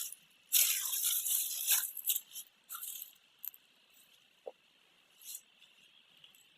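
Bursts of rustling, crunching noise for the first couple of seconds, then a few scattered small clicks.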